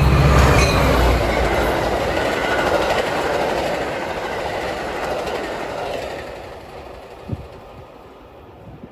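A train going by on the main line, loudest at first with a deep low rumble that drops away after about a second, then wheel and rail noise fading steadily as it moves off.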